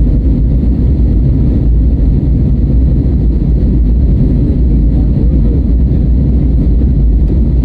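Airbus A320neo engine and airframe noise heard from inside the passenger cabin during takeoff: a loud, steady, deep rumble.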